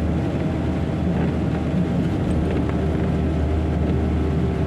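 Steady cab noise of a small Ford F-series truck driving on a wet road in the rain: a constant low engine drone under the hiss of tyres and rain.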